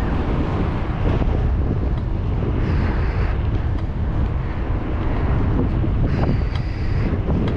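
Wind buffeting the microphone of a camera on a moving bicycle: a loud, steady rumble. A faint high squeal sounds twice, about three seconds in and again near the end.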